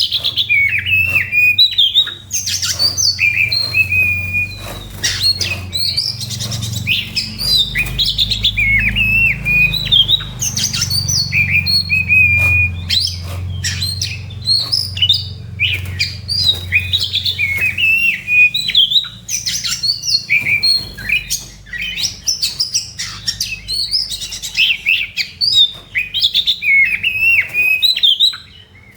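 Oriental magpie-robin (kacer) singing its fighting song: a fast, unbroken run of varied whistles, pitch sweeps and harsh clicks, pausing briefly near the end, over a low steady hum.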